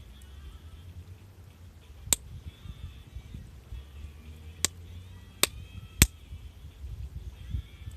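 Wood fire crackling: four sharp pops from the burning wood, the loudest near the end, over a low, uneven rumble.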